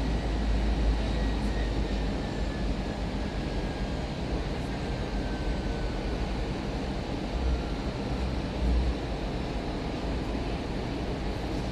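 Airbus A319 cabin noise heard from the front seat: a steady rumble of engine and airflow, with a deep low rumble easing off about two seconds in and a faint whine sliding down in pitch over the next few seconds.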